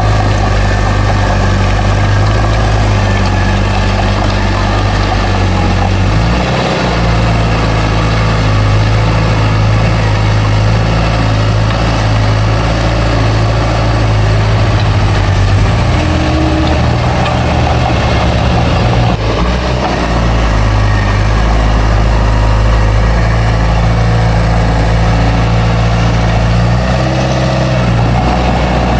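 Heavy diesel engine of a bulldozer running loudly and steadily, its note shifting with load a few times as it works.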